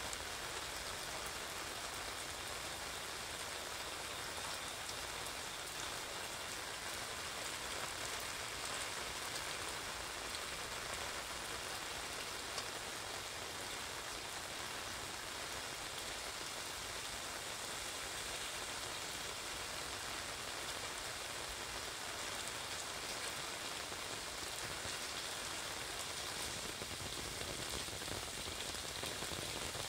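Steady heavy rain falling on a wet street and drumming on an umbrella overhead, with many fine individual drop ticks.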